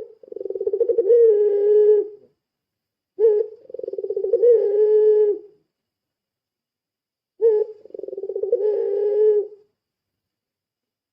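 Puter pelung, a long-cooing breed of ringneck dove, cooing three times, about three and a half seconds apart. Each call is a short opening note followed by a long, fast-pulsing coo of about two seconds.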